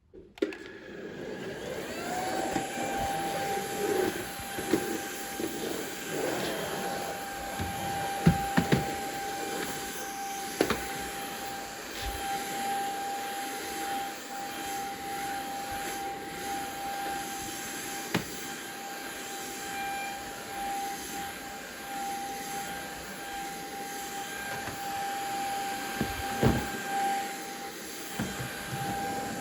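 A household appliance's electric motor switching on, its whine rising in pitch over about two seconds and then running steadily with a rushing hiss. Occasional knocks and bumps sound over it.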